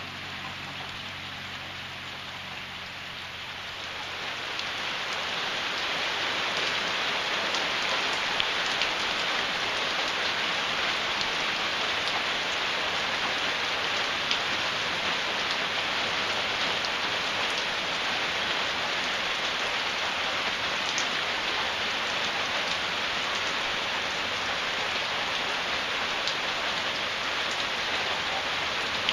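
Heavy rain drumming on a tin roof, a dense, steady patter that grows louder about five seconds in and then holds.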